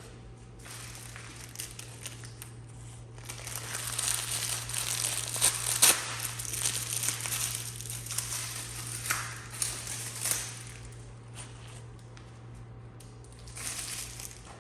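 Rustling and crinkling, as of crinkly material such as plastic being handled, in irregular bursts with the sharpest crackles about six seconds in, over a steady low hum.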